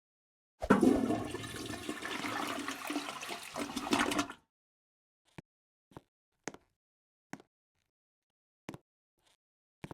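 Rushing water noise for about four seconds that starts suddenly and stops abruptly, followed by a few short faint clicks.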